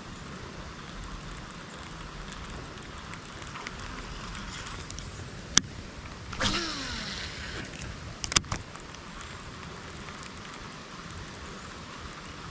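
Steady hiss of falling rain. Around the middle come a sharp click, then a brief whoosh that falls in pitch, then two quick clicks.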